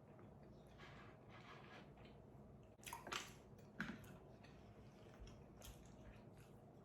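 Faint, wet chewing of food, with a couple of sharper squelches about three and four seconds in.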